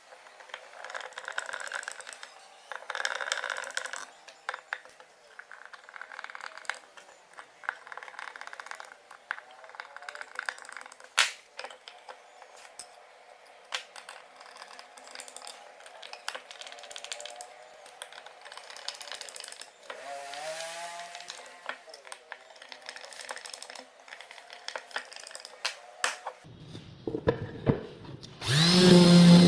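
Light scraping and rubbing of hand work on wood, broken by sharp clicks and taps. Near the end a much louder, steady sound with a low hum starts.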